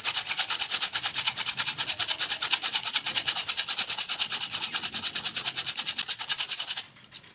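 Fast rhythmic scraping of a knife blade worked back and forth against a sharpener, about nine strokes a second, stopping abruptly near the end.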